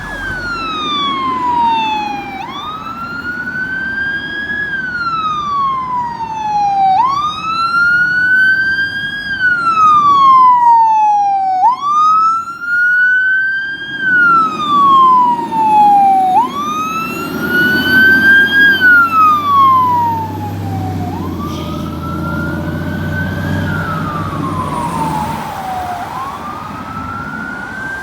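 Fire apparatus siren in wail mode, the pitch rising and falling about every four and a half seconds, with a low rumble beneath.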